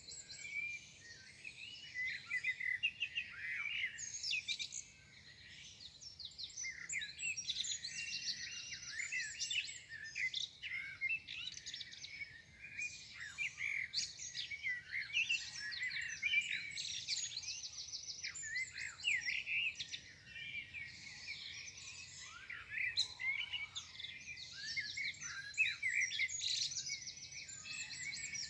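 Morning chorus of several songbirds singing at once: overlapping chirps, rapid trills and short whistled phrases, continuous throughout.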